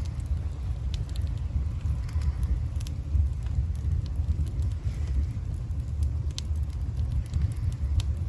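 Campfire burning: sharp crackles and pops of burning wood come at irregular moments over a steady low rumble.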